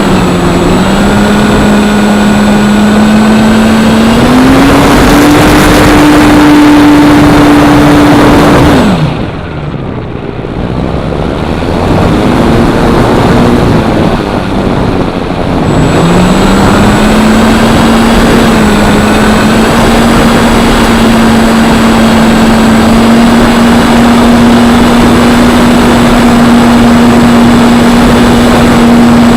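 Electric motor and propeller of a Parkzone P-47 RC plane running under throttle over a steady rush of wind noise. The motor pitch dips and rises, then drops sharply about nine seconds in as the throttle is cut, stays low for several seconds, and climbs back to a steady drone for the rest.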